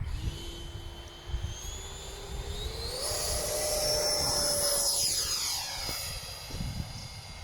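Electric ducted fan model jet on its take-off run: the fan whine rises slowly, then jumps sharply higher about three seconds in as the throttle goes to full. It holds there at its loudest, then shifts in pitch and fades as the jet goes away. Wind buffets the microphone underneath.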